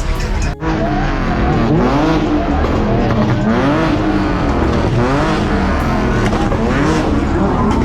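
Car engine revving over and over, its pitch rising and falling about once a second, after a short break about half a second in.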